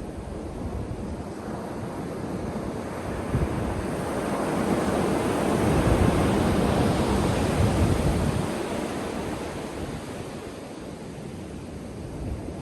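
Ocean surf: a wave builds, breaks and washes in, loudest around the middle, then recedes into a softer wash.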